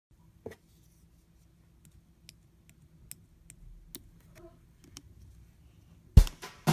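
Sparse faint clicks and light taps, a few a second at most. Near the end, music with a plucked guitar and a strong beat starts loudly.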